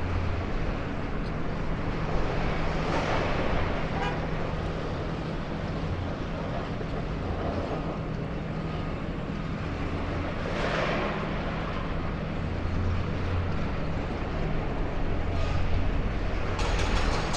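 Steady low diesel-engine drone mixed with road traffic, with vehicles passing and swelling louder twice.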